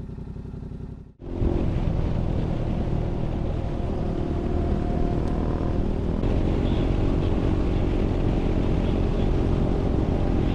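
Adventure motorcycle engine running. About a second in there is a cut, after which the motorcycle is heard louder while riding, its engine mixed with wind and road noise.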